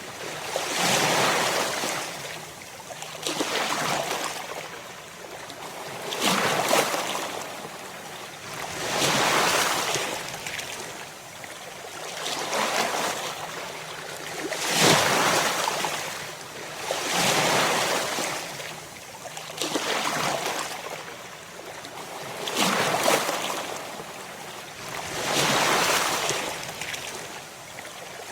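Ocean waves breaking on a shore, one wash of surf after another, each surge swelling and falling away about every two to three seconds.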